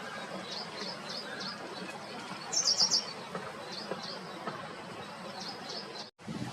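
Wild birds chirping: short high calls in little runs of two or three over a steady outdoor background, with a louder, quicker cluster of chirps about halfway through. The sound drops out briefly near the end.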